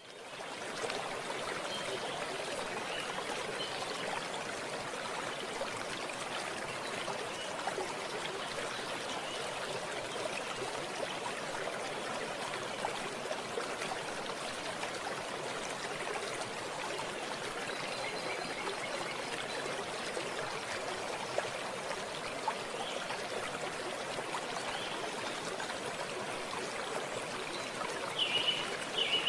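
Water of a stream running and trickling in a steady rush, with a few short high chirps near the end.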